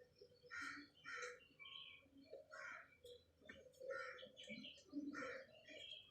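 Small birds chirping in short, repeated chirps about every half second.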